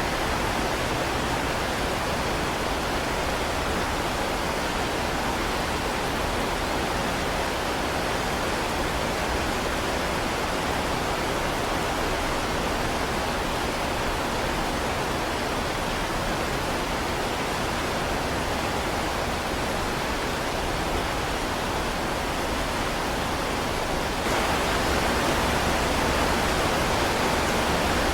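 Heavy rain falling, a steady even hiss with no distinct drops or thunder; it turns a little louder near the end.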